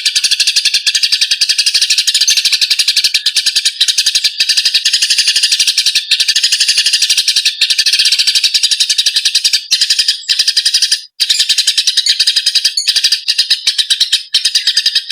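Eurasian tree sparrows calling in a fight: a rapid, unbroken chatter of harsh chirps, many a second, with a brief gap about eleven seconds in.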